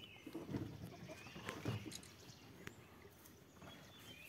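Faint bird chirps in dry forest, with a few low muffled thumps and sharp clicks.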